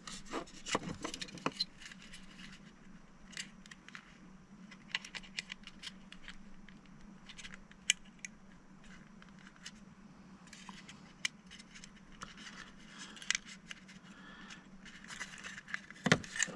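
Small hand tools clicking, scraping and tapping against a model locomotive's plastic parts while a glued-in part is pried loose, in scattered short clicks and scrapes over a steady low hum.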